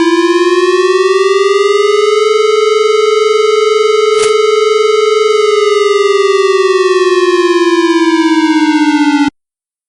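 Outdoor tornado warning siren sounding one long wail: the pitch rises over the first two seconds, holds steady, then falls slowly and cuts off abruptly near the end.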